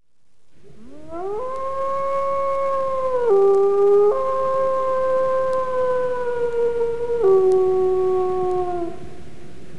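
A wolf howling: one long howl that swoops up at the start, holds steady, steps down and back up in pitch, then drops lower and fades out about nine seconds in.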